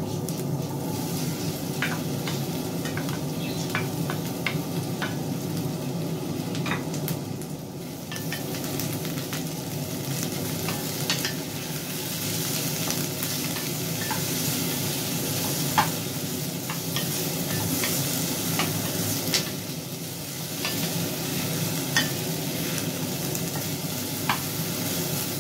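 Diced potatoes and onions frying in oil in a stainless steel pan, a steady sizzle, while a wooden spatula stirs them, with sharp clicks and scrapes of the spatula against the pan.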